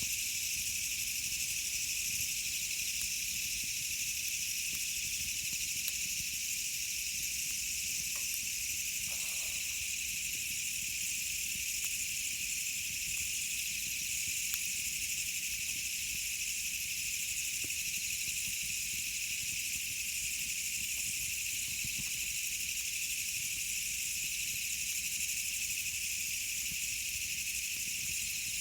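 A steady high-pitched insect chorus with a few faint crackles from a wood campfire.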